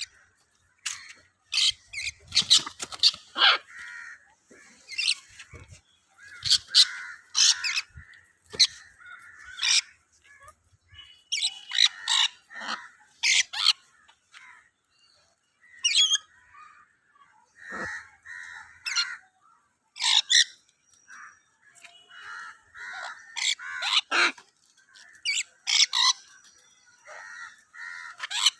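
Parrots squawking: many short, harsh calls in repeated clusters with brief pauses between.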